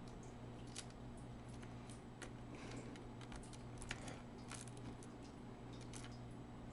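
Faint, irregular small clicks and ticks of a screwdriver and a tiny screw being handled and fitted into a laptop's power-port mount, over a steady low hum.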